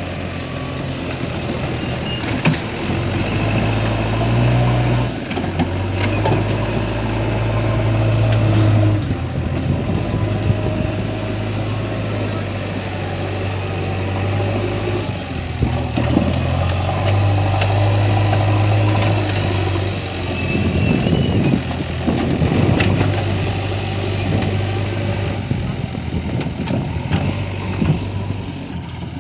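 Diesel engine of a backhoe loader running steadily, its speed stepping up and down as the machine works, with occasional clanks and a scraping rush about two-thirds of the way through as stone is loaded.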